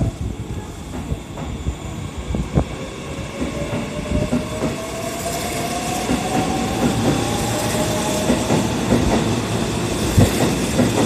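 Kintetsu 80010 series electric train pulling out and gathering speed, its wheels clacking over the rail joints in quickening knocks. Under them a motor whine rises steadily in pitch as it accelerates.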